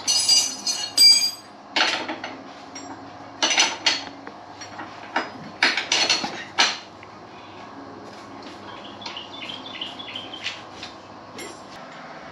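Metal tools and parts clinking and clanking as they are handled: about eight sharp strikes with a bright metallic ring in the first seven seconds, then lighter ticks and small clinks.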